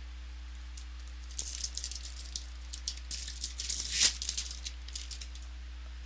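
Crinkling and crackling of a trading-card pack wrapper as it is opened and the cards handled: an irregular run of crackles, loudest about four seconds in. A steady low electrical hum runs underneath.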